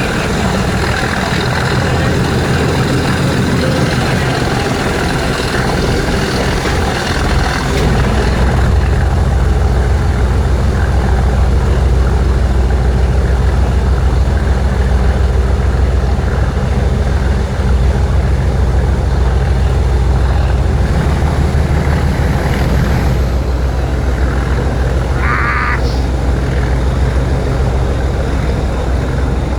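Class 37 diesel locomotive's English Electric V12 engine working hard under power, a loud steady drone that gets heavier about eight seconds in. A short high tone sounds near the end.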